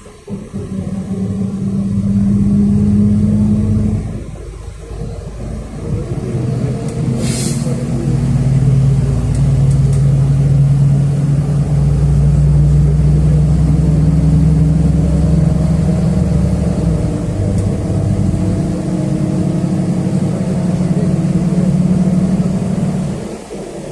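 City bus engine pulling away and accelerating through the gears, heard from inside the cabin. The engine note steps at a gear change about four seconds in, climbs steadily, shifts again later and drops away near the end. A short hiss about seven seconds in.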